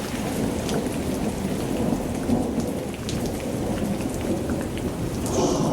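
Thunderstorm: steady heavy rain with a low, rolling thunder rumble underneath, and scattered drop ticks on top.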